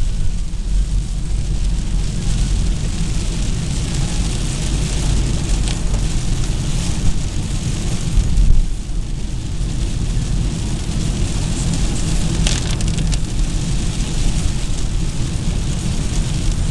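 Steady low road and engine rumble of a car driving in the rain, heard from inside, with an even hiss of rain and tyre spray and a few brief sharp sounds partway through.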